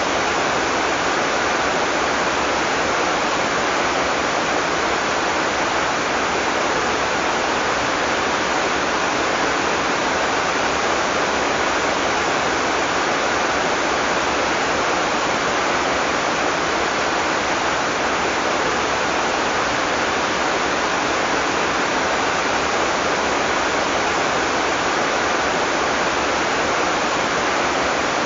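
Heavy tropical rain falling steadily, an even dense hiss with no breaks or thunder.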